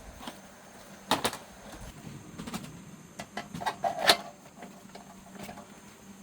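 Scattered clicks and knocks, one about a second in and a quick run of them from about three seconds, the loudest just after four seconds, over a faint steady hum.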